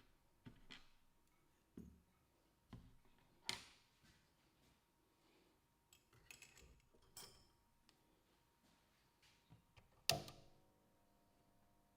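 Scattered light clicks and taps of small hard tools and parts being handled on a workbench, with a sharper knock about ten seconds in that rings briefly.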